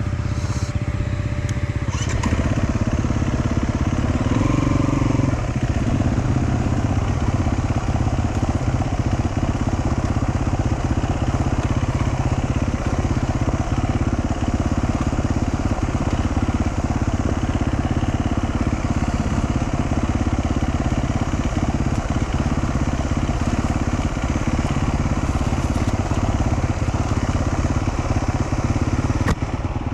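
Dual-sport motorcycle engine running steadily while riding.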